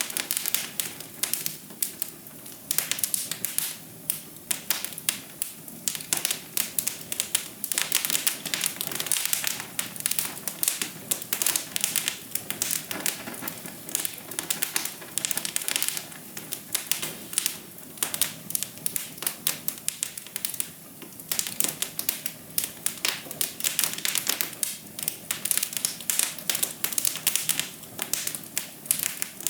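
Wood fire crackling in a fireplace: a steady stream of irregular sharp pops and snaps over a soft, even hiss.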